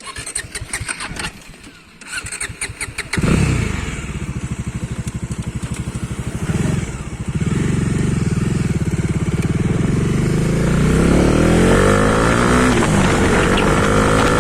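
Superbike engine cranked on the electric starter in two tries, catching about three seconds in. It then idles with a fast, even beat and is revved up and down near the end.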